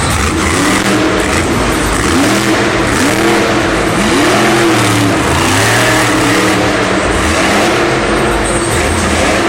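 Monster truck's supercharged V8 engine revving loud and unmuffled, the pitch climbing several times in quick succession and falling back, over a steady arena din.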